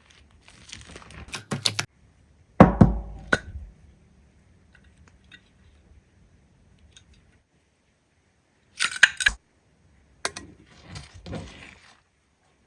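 Slime being handled, squeezed and poked in short bursts of crackling and clicking with quiet gaps between them. A heavy thunk about two and a half seconds in is the loudest sound, and a quick cluster of clicks comes around nine seconds.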